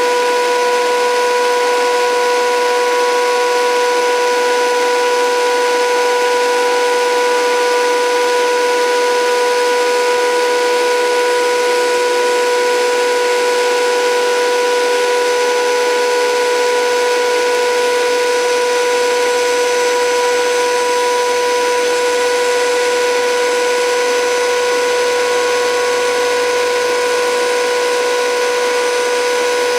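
Modified toy washing machine running on a PWM-driven 775 DC motor: a steady high electric whine, with a second motor tone rising in pitch from about the middle as the motor speeds up.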